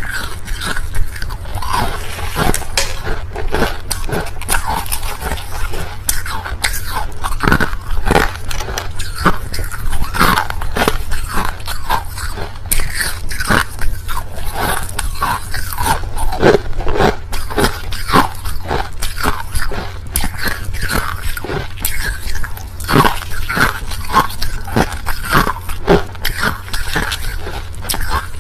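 A person biting and chewing white crushed ice, with a dense run of crisp crunches several times a second.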